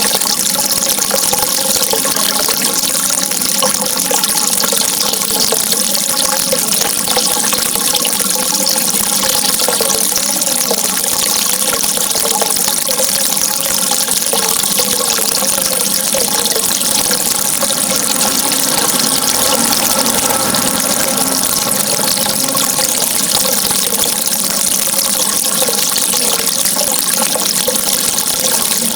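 Steady rushing water with an unchanging, dense hiss. A faint wavering hum of several tones sits beneath it.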